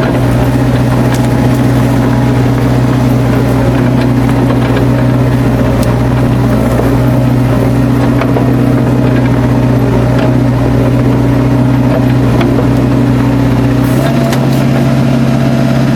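Excavator's diesel engine running steadily with an even hum, heard close up from the machine itself, with a few faint clicks over it.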